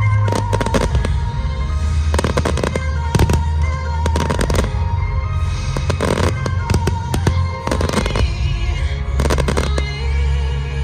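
Fireworks bursting in irregular volleys of sharp bangs, over loud music with a heavy bass.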